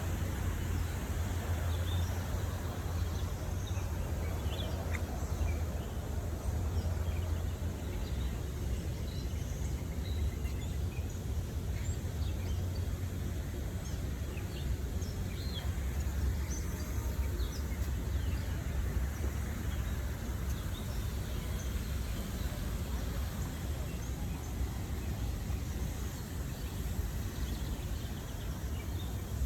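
Outdoor ambience: a steady low rumble with many short, scattered bird chirps over it.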